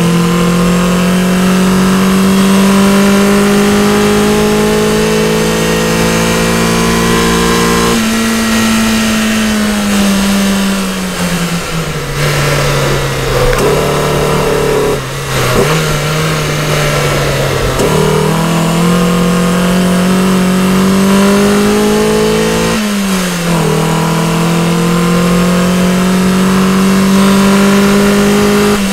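Mercedes 190E 2.3-16's 16-valve four-cylinder engine heard from inside the cabin while lapping a track: it pulls steadily under throttle, comes off the throttle and slows for a corner in the middle, then accelerates again. A sharp drop in pitch about 23 seconds in marks an upshift, after which the revs climb again.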